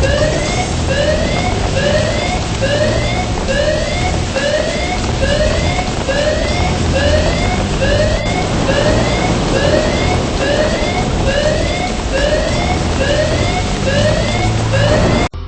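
A siren whooping: a short upward-sweeping tone repeated about three times every two seconds over a loud rushing noise. It cuts off suddenly near the end.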